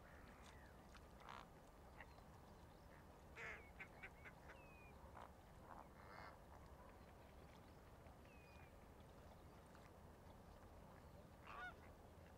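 Faint, scattered bird calls: a run of short calls about three to six seconds in and another near the end, plus two brief whistles that slide down in pitch, over a low steady hum.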